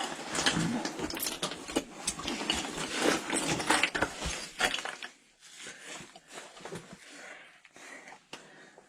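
A caver squeezing through a tight rock crack: irregular scraping, rustling and small knocks of clothing and gear against rock. Busy for about the first five seconds, then fainter.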